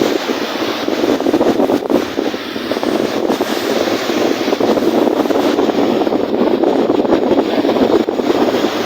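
Wind-driven lake waves with wind gusting: a steady, loud rushing noise that swells slightly in the second half.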